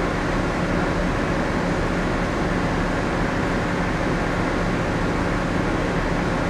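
Steady shipboard machinery drone inside a moored passenger ferry: a constant low hum under an even rush of ventilation noise, with no change throughout.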